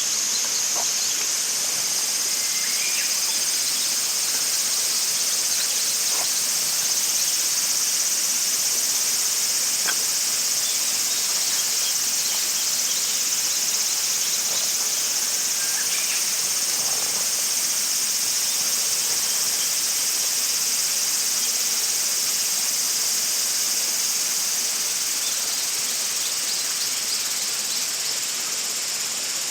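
A steady, unbroken chorus of insects chirping in a high band, with a few faint ticks scattered through it.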